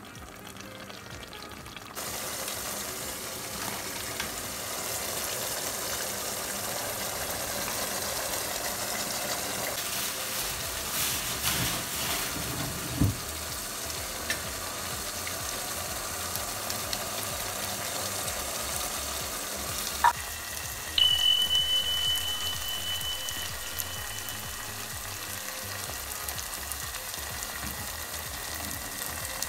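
Chicken pieces sizzling as they fry in tomato masala in a steel pot, a steady hiss that steps up about two seconds in. A sharp click about twenty seconds in is followed by a steady high tone, louder for a few seconds and then fainter.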